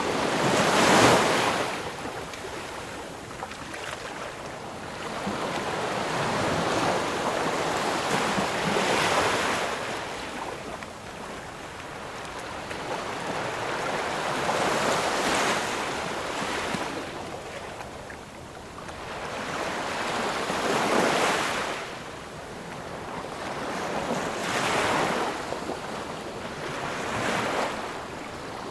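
Ocean surf: waves breaking one after another, six swells of rushing noise rising and fading a few seconds apart, the first the loudest.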